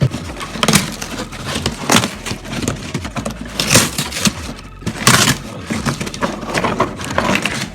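Chunks of crushed stone clattering and grinding against each other as a sack of them is handled, in a string of uneven crunches and rattles.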